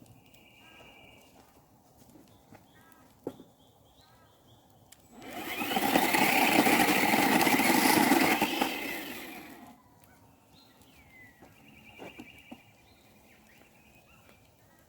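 A motor runs loudly for about four seconds near the middle, starting quickly and dying away gradually. Short bird chirps are heard before and after it.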